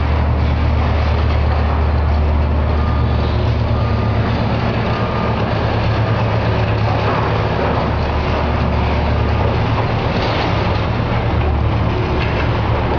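Heavy demolition machinery running steadily: a deep engine drone under a constant noise of working.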